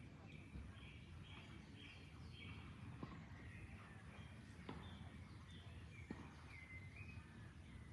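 Faint birds chirping, short notes repeated in runs of about two a second, over a low steady rush of flowing water. A few faint clicks come through midway.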